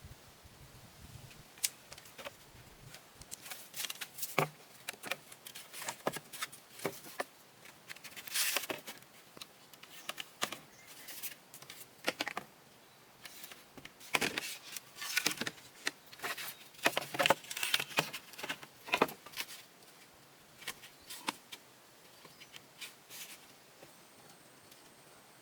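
Irregular light clatter, clicks and rustling from objects being handled, busiest in the middle and thinning out near the end.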